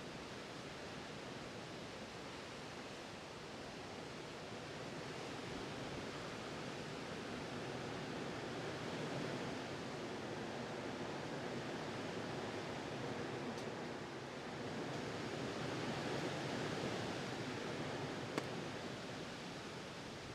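Strong gusty wind rushing over the microphone: a steady noise that swells louder about four seconds in and eases off again near the end.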